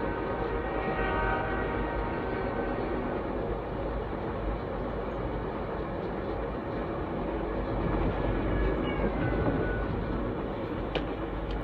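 Steady rolling noise of VIA Rail's The Canadian passenger train, heard from inside the car. The locomotive's horn sounds faintly from up ahead, a chord of held notes that fades out a few seconds in.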